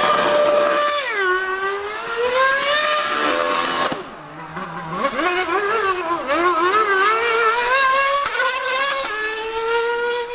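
High-revving racing engine running hard, its pitch climbing and dropping repeatedly as it is driven through the gears, with several quick upshifts near the end.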